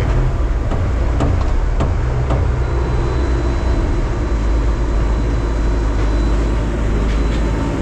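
Scrap metal baler running under load, a steady deep drone from its engine and hydraulics, with a few light metallic knocks in the first couple of seconds.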